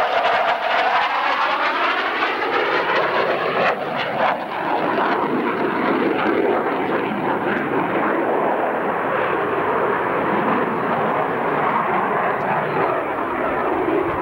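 CF-18A Hornet's twin General Electric F404 turbofans passing overhead: a whine that falls in pitch over the first few seconds, then steady loud jet noise.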